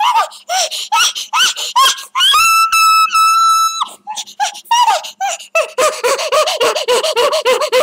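High-pitched squealing voice: a string of short yelps, a long held squeal a little over two seconds in, then a quick run of rapid squeaks near the end.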